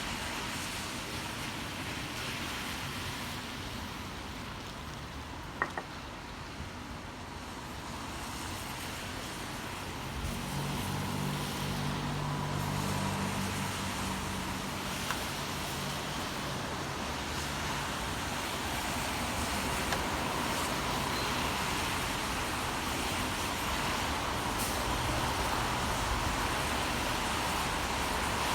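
City street traffic in the rain: a steady hiss, with a vehicle's engine hum coming in about ten seconds in and staying. There is a single sharp click about six seconds in.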